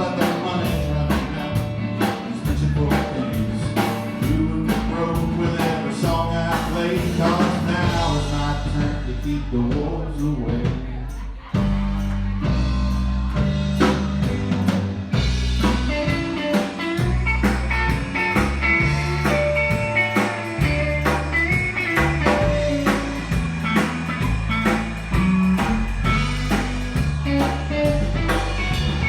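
Instrumental passage of a blues-rock song: drum kit keeping a steady beat under bass and band. The band thins out briefly about eleven seconds in, then comes back in full.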